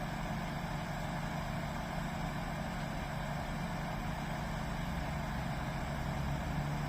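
A train's diesel engine running steadily: a low, even drone under a broad rushing noise.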